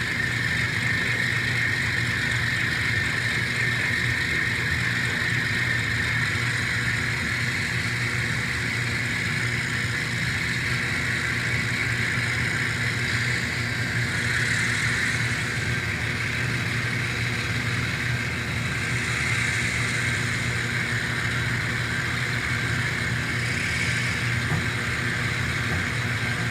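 Sound-equipped N scale Alco diesel locomotives playing a steady diesel engine running sound through their small onboard speakers, held at a constant throttle setting. A clothes dryer runs in the background.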